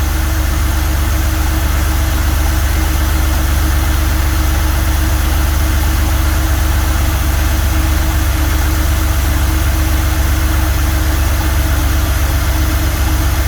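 Porsche 993's air-cooled flat-six engine idling steadily, with an even, unchanging note.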